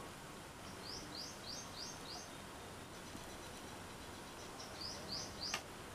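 A small bird chirping faintly in a quick run of five short rising chirps, then three more near the end, over a low background hiss. A single light click just before the end.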